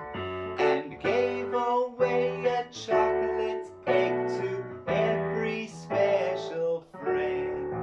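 Children's song sung over instrumental accompaniment, with held notes beneath the voice.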